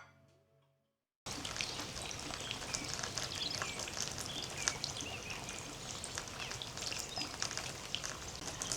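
Steady rain falling, a dense even hiss of drops, with birds chirping through it. It cuts in suddenly about a second in, after the last notes of music die away.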